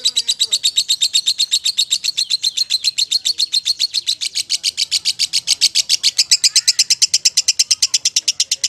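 Lovebird singing a long, unbroken trill of rapid high chirps, about ten a second.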